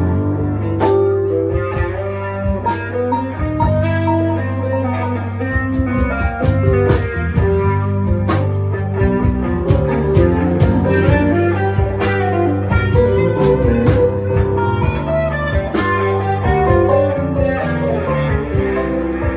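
Live band playing an instrumental tune: guitar over bass and drums.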